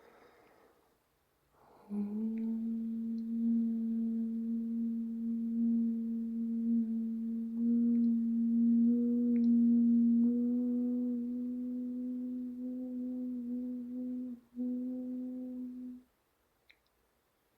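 A voice humming one long held low note. It starts after a breath and stays steady, with a brief break about three-quarters of the way through before the note resumes and then stops.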